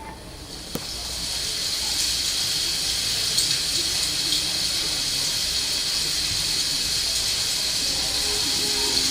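A steady, even hiss that fades in over the first second or so and then holds, with a single click just under a second in.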